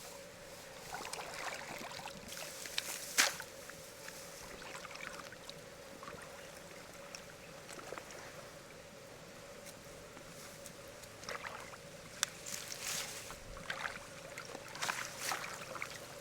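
Water splashing and sloshing in short, scattered bursts, with a sharp knock about three seconds in and more splashes in the last few seconds, over a faint steady hum.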